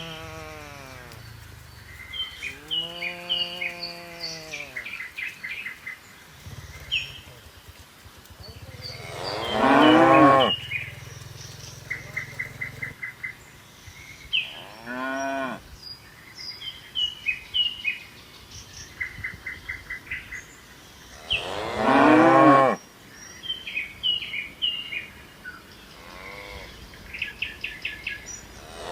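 Cattle mooing: about five long calls from the herd, the loudest about ten seconds in and again about twenty-two seconds in, with birds chirping in the gaps between them.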